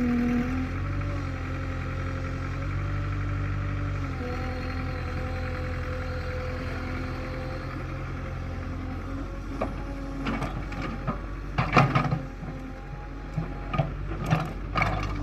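Tractor diesel engine running steadily. In the last few seconds a run of sharp clanks and knocks sounds over it.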